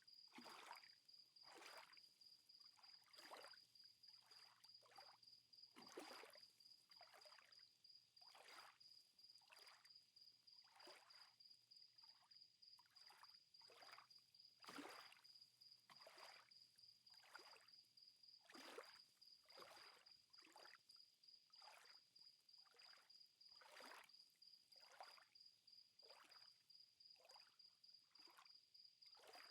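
Very faint water lapping, with soft irregular splashes about once or twice a second and a steady faint high-pitched tone underneath.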